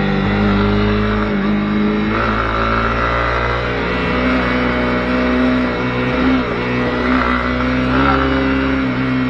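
Honda CB250R's single-cylinder engine running under way, its pitch dipping and rising several times as the throttle and road speed change.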